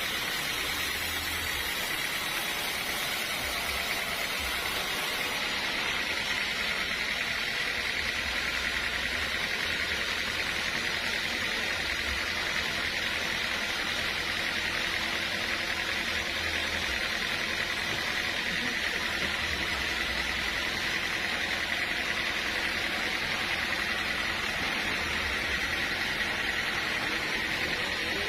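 Sawmill machinery running steadily: a constant mechanical drone with a steady high tone that does not change.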